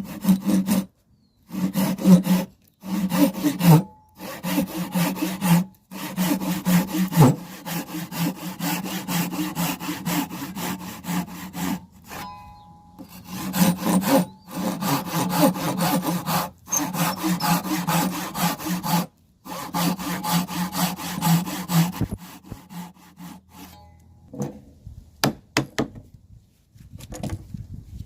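Hand saw cutting wood in quick back-and-forth strokes, in runs of a few seconds broken by short pauses. Near the end the sawing stops and there are a few separate knocks.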